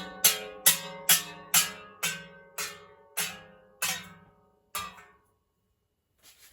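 The same ringing, pitched strike repeated over and over, like a plucked chord, slowing from about two a second to one a second and fading out about five seconds in.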